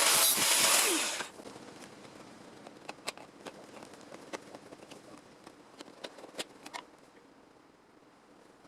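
A power tool working on sheet metal runs with a loud rushing noise and stops about a second in. Scattered light clicks and taps follow.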